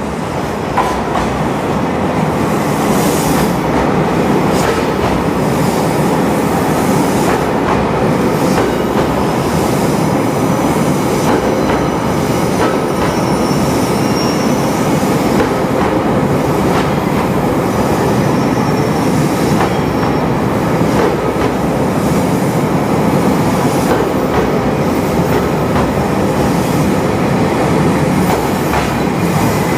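Train running on the track with a steady, loud rumble of wheels on rails, a few clicks from the rail joints, and faint high wheel squeal.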